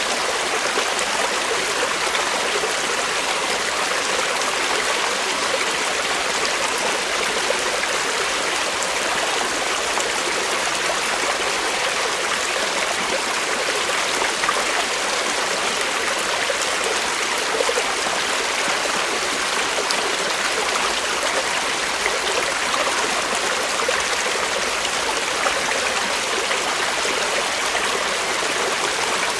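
Creek water flowing steadily over rocks, a constant rushing with a light trickle.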